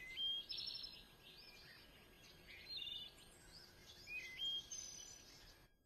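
Faint birdsong: a string of short high chirps and trills, several rising in quick steps, over a steady background hiss.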